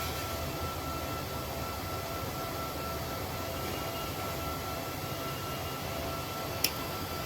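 Steady machine hum and hiss with a faint high steady tone, and one sharp click near the end.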